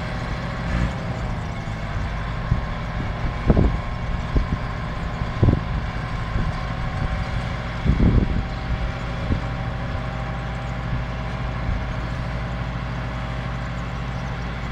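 Tractor diesel engine running steadily with a Zomax AG flail mulcher, with a few loud sharp knocks about three and a half, five and a half and eight seconds in.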